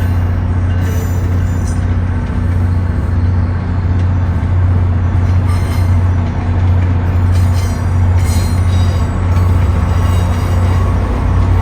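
MBTA rail transit train running, a steady loud low hum and rumble with occasional light clicks.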